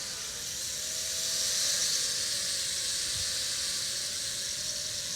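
eWonderWorld Wonder Chopper, a small plus-configuration quadcopter toy drone, in flight: a steady high-pitched whir of its propellers with a faint wavering tone underneath, swelling a little louder about two seconds in.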